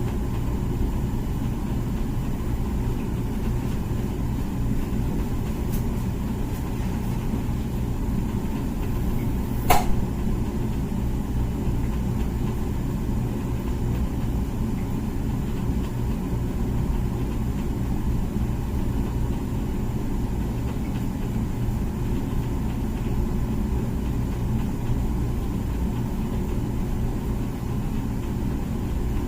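Comfee dishwasher running its wash cycle, a steady hum from the machine. One sharp knock comes about ten seconds in.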